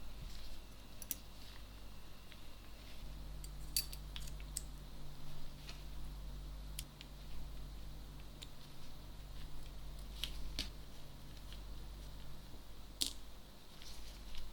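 Scattered light clicks and taps of small tools and camera parts being handled at a workbench, over a low steady hum. A faint steady low tone joins in about three seconds in and stops near the end.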